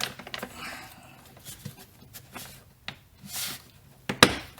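Plastic engine air filter housing handled and pressed shut: scattered light clicks and rustles, then a sharp snap about four seconds in as one of the lid's latch clips closes.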